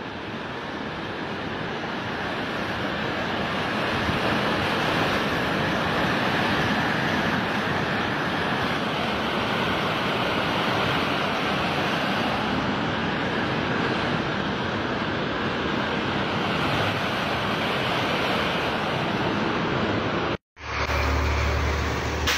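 Fast, churning floodwater rushing loudly and steadily through a narrow street between buildings, building up over the first few seconds. Near the end it cuts off sharply, and a wide flooded river follows, rushing with a deep low rumble.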